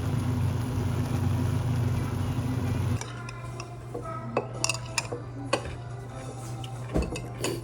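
A steady low rumble, then an abrupt change about three seconds in to light, scattered clinks and taps of cutlery against bowls and dishes.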